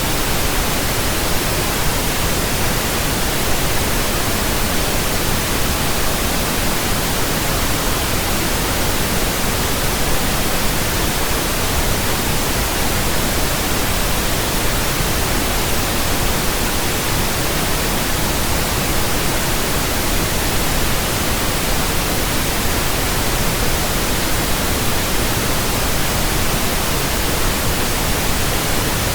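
Steady pink noise from a pink noise generator: an even, unbroken hiss, played as a burn-in signal for new speakers, headphones and earphones.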